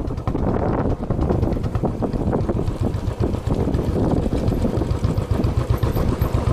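Engine running under heavy wind buffeting on the microphone.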